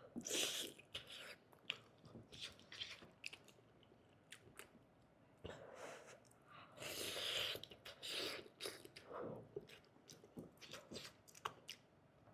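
Close-miked mouth sounds of eating soft, stewed food: wet chewing with lip smacks and clicks, broken by a few longer slurps.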